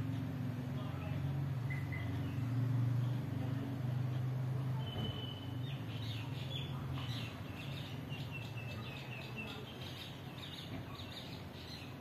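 Small birds chirping: a quick run of short, high chirps starting about five seconds in, over a low steady hum that fades out around seven seconds in.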